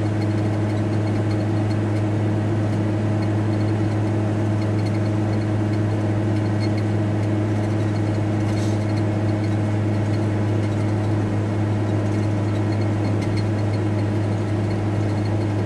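VW T4 Transporter van driving along, heard from inside the cab: a steady drone of engine and road noise with a strong low hum.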